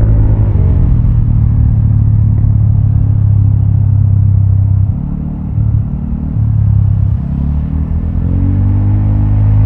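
Vespa automatic scooter's engine running through a Prospeed Black CNC aftermarket exhaust while riding. Its note holds steady, eases off and drops in level about five seconds in, then climbs in pitch again near the end as the rider gets back on the throttle.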